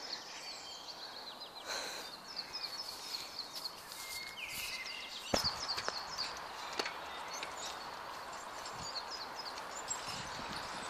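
Birds singing, many short high chirps repeating throughout, over a steady background hiss, with a sharp click about five seconds in.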